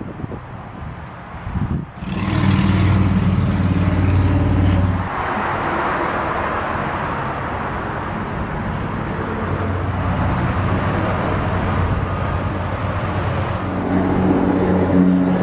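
A motor vehicle's engine runs with a steady low hum that starts abruptly about two seconds in. For several seconds in the middle a rushing noise takes over, and the hum comes back stronger near the end.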